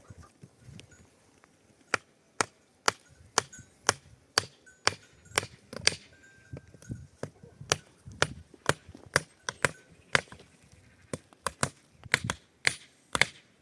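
Repeated sharp blows of a hand tool striking, about two a second, starting about two seconds in and keeping a steady rhythm.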